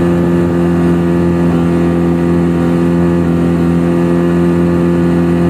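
Motorboat engine running steadily at a constant speed, a loud even drone with no change in pitch.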